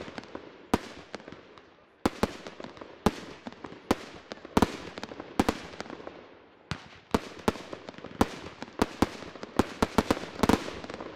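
Fireworks display: a rapid, irregular run of sharp bangs from bursting shells, each trailing off in a crackling echo, with a dense flurry of bangs near the end.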